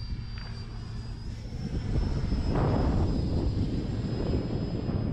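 Electric ducted-fan whine of an E-flite Viper RC jet flying at reduced throttle to bleed off speed: a steady high-pitched tone that rises slightly in pitch about a second in, over a low wind rumble on the microphone. The sound grows louder about two seconds in.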